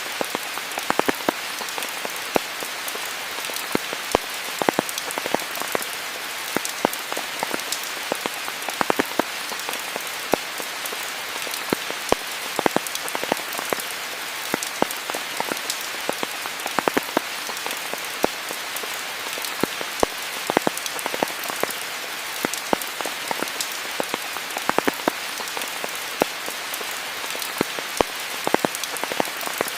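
Steady rain falling, an even hiss with frequent sharp, irregular ticks of single drops striking close by.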